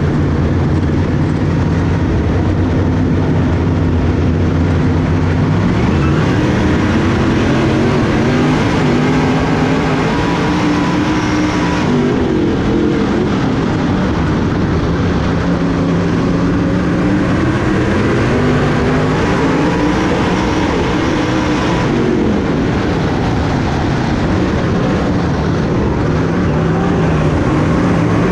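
Dirt-track race car's V8 engine running hard, its pitch climbing and dropping again and again as the throttle comes on and off.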